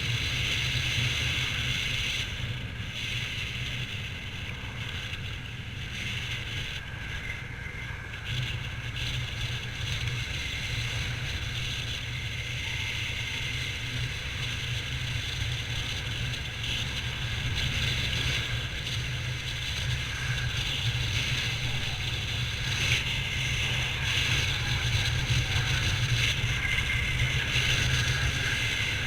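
Victory motorcycle's V-twin engine running steadily while riding, with wind noise hissing over the camera's microphone.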